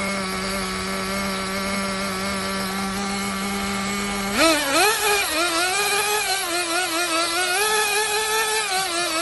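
An engine holding a steady high speed, then revved up sharply about four seconds in and held high, its pitch wavering up and down.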